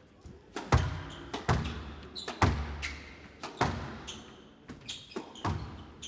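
A squash rally: a string of sharp, hollow ball strikes off racket and court walls, roughly one every second, echoing in the glass court.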